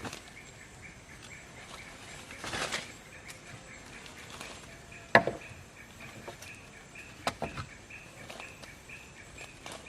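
A few sharp wooden knocks, like wood being struck or chopped: the loudest about five seconds in, two smaller ones about two seconds later, with a brief rustle before them. Under it runs a steady, evenly pulsing insect chirr.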